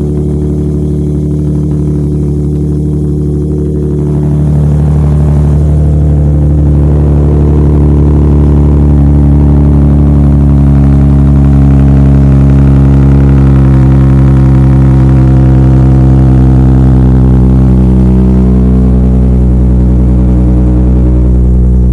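Infiniti G37's 3.7-litre V6 idling just after a cold start, breathing through ISR long-tube headers and an ISR single-exit exhaust. It steps up louder about four seconds in, then holds a steady, even idle.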